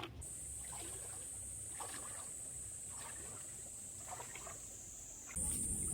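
A steady high-pitched insect chorus buzzing over the low rush of a stream, with a few faint soft knocks. About five seconds in, the sound jumps louder, with a stronger rush of water underneath.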